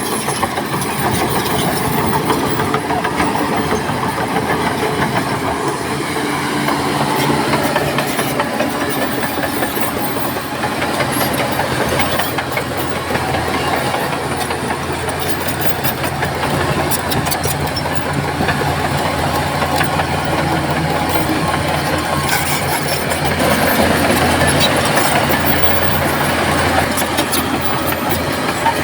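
Heavy diesel earthmoving machinery running steadily, with scattered metallic clanks and clicks.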